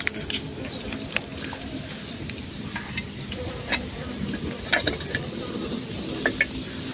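Bananas frying in hot oil: a steady sizzle with scattered crackles and pops.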